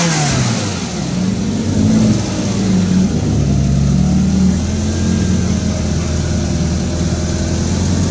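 Ferrari V8 engine, just started, dropping from a blip of revs into a steady idle with small rises and falls in speed.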